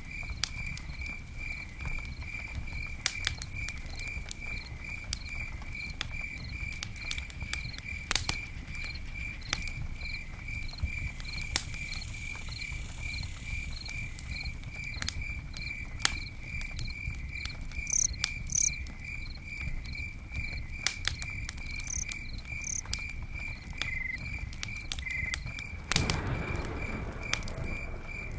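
Campfire crackling, with irregular sharp pops over a low steady rumble of burning wood, while a cricket chirps in a regular pulse a few times a second. Near the end a short louder rush of hissing rises from the fire.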